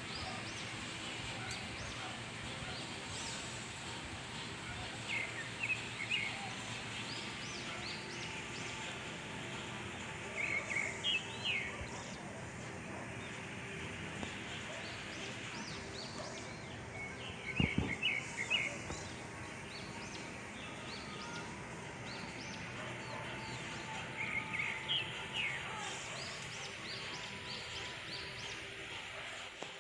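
Birds chirping in short bursts, four times, over steady outdoor background noise, with a single dull knock about two-thirds of the way through.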